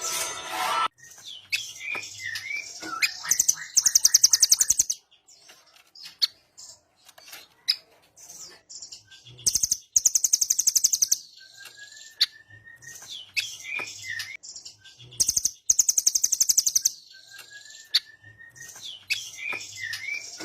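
Velvet-fronted nuthatch song: fast, high, rapid-fire trills of about a second and a half, repeated about every five to six seconds, with sharp chip notes and a thin rising whistle in between.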